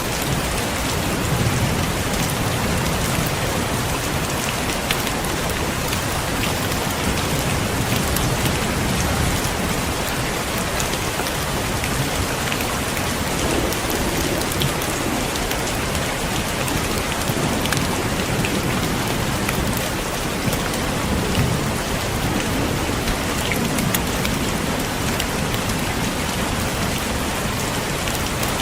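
Heavy rain falling steadily, drops pattering on a surface, with low rumbles of thunder swelling and fading underneath.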